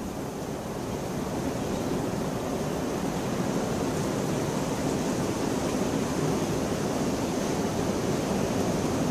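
Steady heavy rain, a dense even hiss that swells slightly louder over the first couple of seconds.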